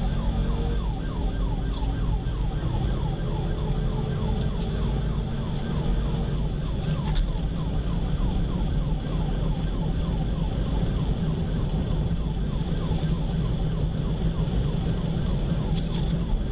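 Police car siren in a fast yelp, its pitch sweeping over and over, over the steady engine and road noise of a vehicle at pursuit speed.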